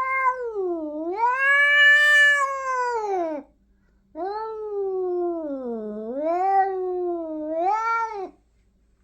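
Domestic cat yowling: two long, drawn-out meows, each several seconds long, with the pitch dipping and rising within each call.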